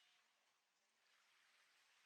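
Near silence: only a very faint, even hiss that swells and fades slightly.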